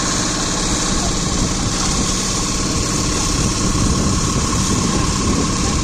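A motor or engine running steadily: a continuous even hum with a faint steady whine over it.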